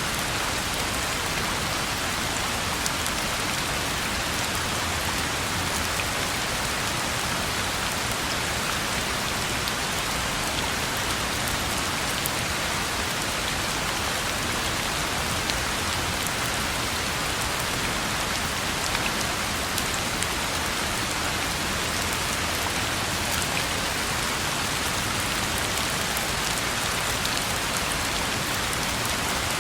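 Steady rain falling on a road: an even hiss with scattered ticks of single drops.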